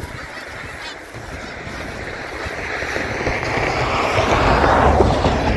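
A vehicle passing close by: its road noise builds steadily over a few seconds, drops slightly in pitch as it goes by, and falls away quickly near the end.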